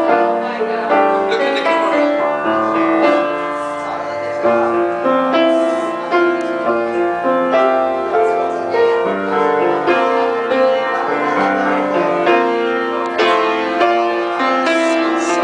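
Piano being played: a continuous melody over chords, notes struck and changing in quick succession.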